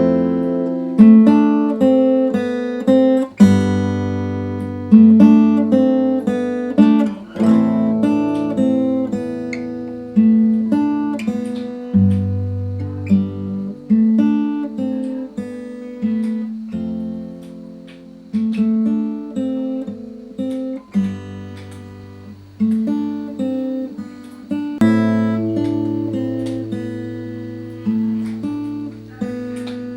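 Acoustic guitar played fingerstyle: plucked melody notes over held bass notes, each attack ringing out and fading, with occasional strums.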